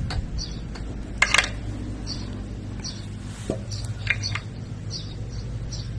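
A few sharp clinks like utensils against dishes, loudest about a second in and again around four seconds in, over a steady low hum. Short high chirps repeat about twice a second throughout.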